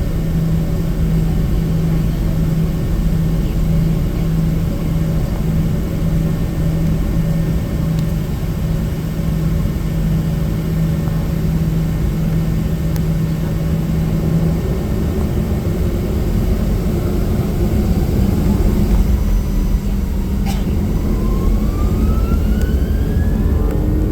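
Cabin noise of a Boeing 737-800 with CFM56-7 engines: a steady low rumble with a hum that stops about two-thirds of the way through. Near the end, a whine starts rising steadily in pitch as the engines spool up, and there is one sharp click partway through the rise.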